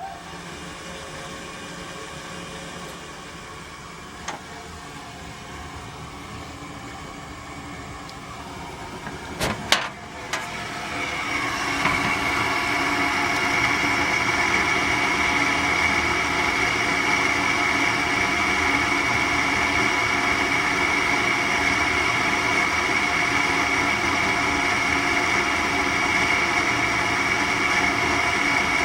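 Rheem RGPR two-stage gas furnace running with a steady hum. Two sharp clicks come about nine and a half seconds in, then the sound swells over about two seconds to a much louder, steady running noise with a high whine.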